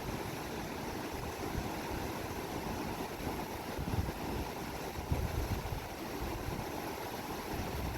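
Steady rush of a swollen monsoon river in flood, with a few low bumps about four and five seconds in.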